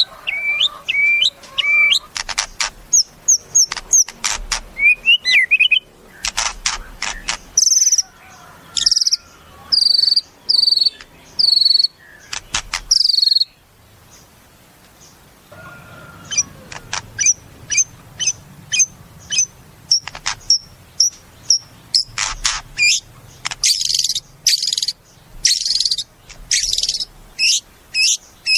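White-rumped shama (murai batu) singing a varied song: quick clicking runs, repeated whistled notes and sharp chips. It breaks off for a few seconds about halfway, then starts again.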